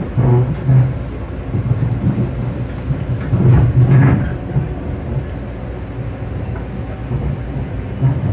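Long Island Rail Road electric commuter train in motion: a steady rumble of wheels on rail. Louder rattling surges come about three to four seconds in.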